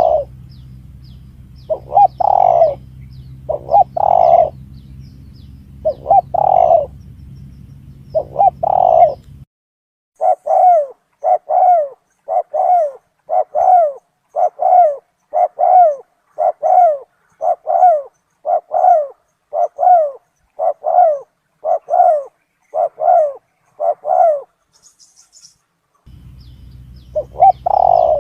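Spotted dove (tekukur) cooing played as a hunter's lure call. At first there are uneven groups of coos over a steady low hum. From about ten seconds in, a clean, even run of short coos follows, about one and a half a second. The hum and grouped coos return near the end.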